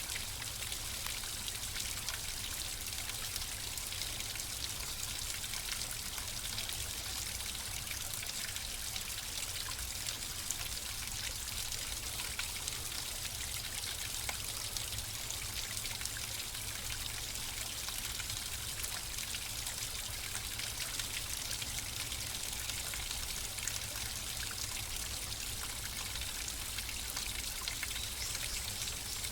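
Running water flowing and trickling steadily, a continuous splashing hiss with fine droplet patter.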